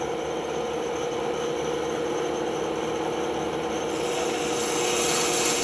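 Band saw running with a steady hum while its blade cuts wood; the high rasping hiss of the cut grows louder about four seconds in.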